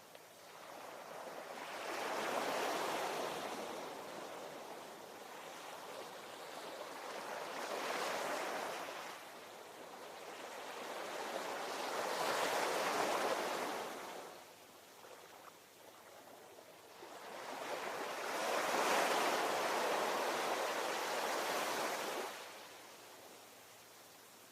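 Ocean waves breaking and washing ashore: four surges, each swelling and fading over a few seconds, the last one longest, with a lull near the end.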